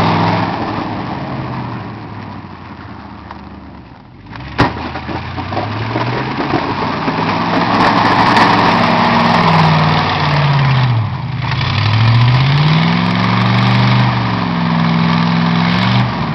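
Engine of a snow-plowing vehicle running and revving up and down repeatedly, its pitch rising and falling. It drops briefly about four seconds in, and there is a single sharp knock just after.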